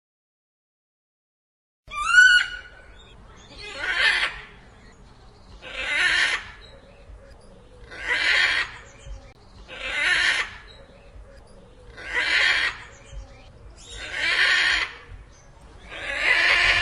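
An animal calling repeatedly, one call about every two seconds, each about a second long. A short rising squeak comes just before the first call, about two seconds in.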